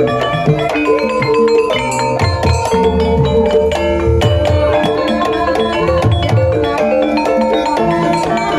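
Gamelan music for an ebeg horse-trance dance: struck metallophones or bamboo mallet instruments play a dense, repeating melody of ringing notes over regular low drum beats.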